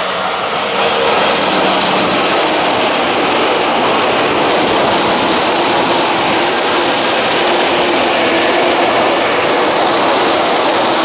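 Electric commuter trains of the Tokyu Den-en-toshi Line passing close by: a steady, loud rumble of steel wheels on rail as the cars run past.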